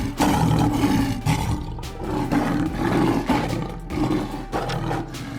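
Lion roaring, a series of deep, rough roars rising and falling one after another.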